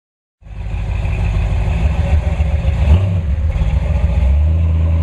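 Big-block 468 V8 of a 1964 Chevy pickup street rod running. The sound cuts in suddenly out of silence, runs lumpy and uneven with a brief surge about three seconds in, then settles into a steady idle about four seconds in.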